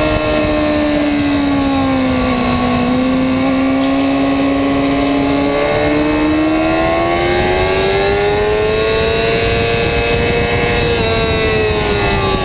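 2008 Yamaha R6 inline-four sport bike engine at high revs on track, heard from the bike with heavy wind rush. The engine note sags a little, breaks briefly about five and a half seconds in as at a gear change, then climbs steadily in pitch under acceleration before easing off near the end.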